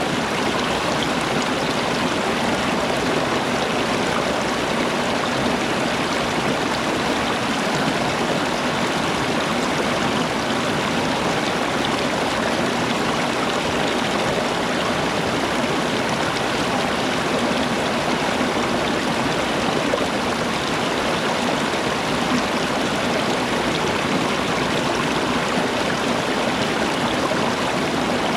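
Flowing water rushing steadily, like a stream running over rocks.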